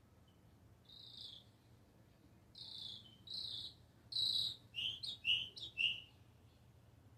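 A songbird singing one phrase. It opens with a few spaced high notes that grow louder, then closes with a quicker run of slightly lower notes.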